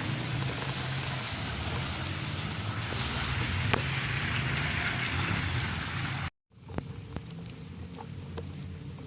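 Steady noise of rain with road traffic rumbling underneath. About six seconds in it cuts off abruptly, then comes back quieter, with faint scattered ticks like drips.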